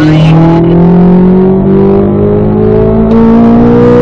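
Corvette V8 accelerating hard in third gear on a track, its pitch rising steadily as the revs climb from about 4,500 toward 7,000 rpm, heard from inside the cabin.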